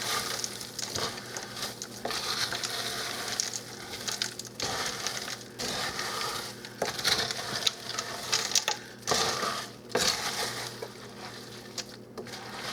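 Frozen O'Brien diced potatoes being stirred into the thick soup base in a pot: irregular crunching and scraping strokes.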